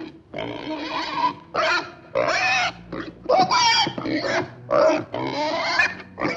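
Pig squealing and grunting in a rapid series of short calls, one after another about every half second.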